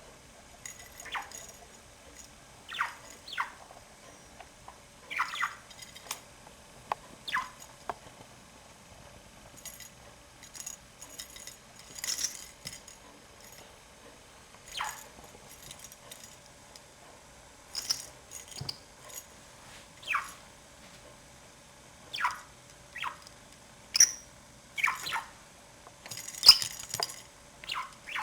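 Budgerigar chirping: a string of short, irregularly spaced calls that drop in pitch, with a few sharp clicks between them.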